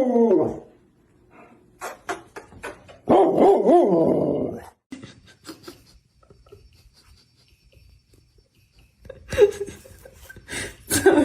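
A dog vocalizing: one drawn-out, wavering call about three seconds in, among scattered clicks and taps, with a few short sharp sounds near the end.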